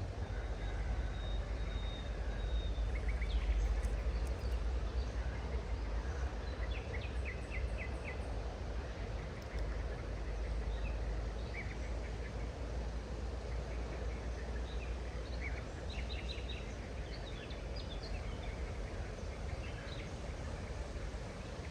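Steady rush of flowing water with a low rumble underneath, while small birds chirp now and then in quick runs of short notes.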